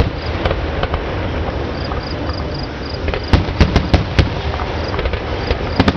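Aerial fireworks shells bursting with sharp bangs: a couple early, a quick run of four from about three seconds in, and two more near the end. Crickets chirp steadily in a high, even rhythm underneath.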